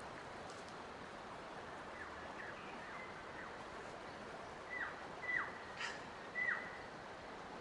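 A bird calling a series of short, downward-slurred whistles. They are faint at first, then come as four louder, clear notes in a row from about five seconds in, over a steady outdoor hiss.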